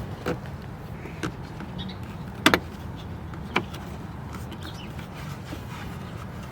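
A few short, sharp clicks and taps of hand work on plastic interior parts, the loudest a quick double click about two and a half seconds in, over a steady low hum.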